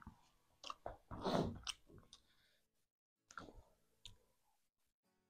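A person chewing chicken meat: faint wet mouth clicks and crunches in two short spells, the louder one a little over a second in.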